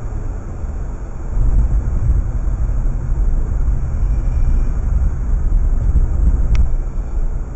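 Car driving, with steady low engine and road rumble that grows louder about a second and a half in, and one short sharp click near the end.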